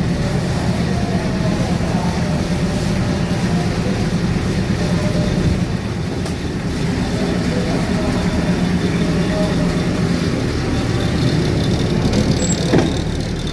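Diesel passenger train running, a steady low rumble and engine drone heard from on board, with faint voices in the background.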